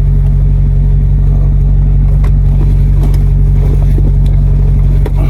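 Maserati GranTurismo's V8 engine and exhaust droning steadily at an even pitch, the car cruising at a constant speed, with a few light clicks over it.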